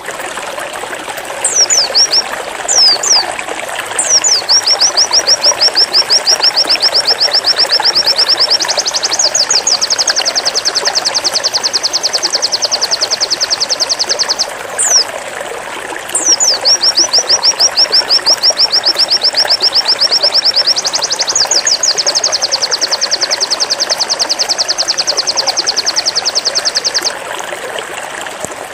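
Pleci (white-eye) singing its 'zipper' song: a few sharp high downslurred calls, then two long runs of rapid, evenly repeated high notes that get faster and higher partway through, each run lasting about ten seconds. A steady rushing, water-like hiss runs underneath.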